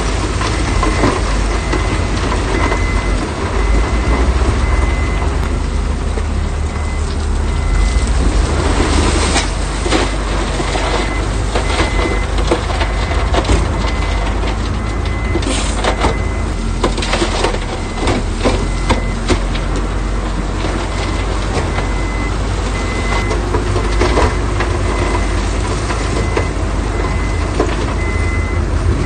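Heavy earthmoving equipment running with a deep engine rumble while a reversing alarm beeps over and over. Large stones clatter and crack as they are moved.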